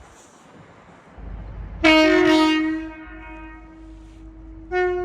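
Train horn sounding: a loud blast about two seconds in that dies away over a second or two, then a shorter blast near the end, over the low rumble of a train's engine.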